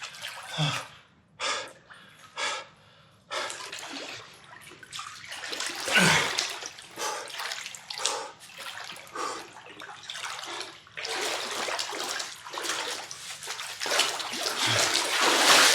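A person wading through a cold pool of water, breathing sharply and gasping from the cold for the first few seconds. Then continuous splashing and sloshing as the body pushes through the water, with a couple of short grunts.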